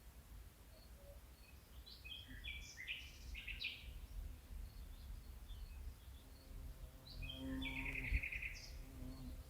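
Birds singing in two bursts of quick chirps and trills, about two seconds in and again about seven seconds in, with scattered faint high chirps between, over a low steady rumble. A short thump comes near the end of the second burst.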